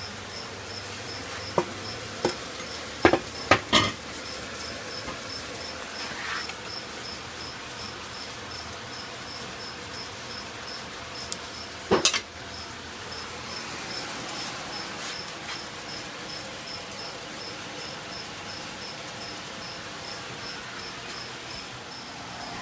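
A cricket chirping steadily, about three short high chirps a second. Several sharp knocks come in the first four seconds, and a louder one about twelve seconds in.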